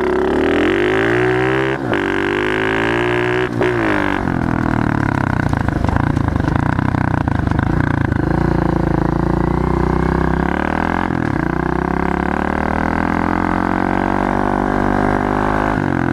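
Pit bike engine accelerating hard from a standing start, its pitch rising and dropping twice in the first few seconds as the rider shifts up through the gears, then running steadily at high revs.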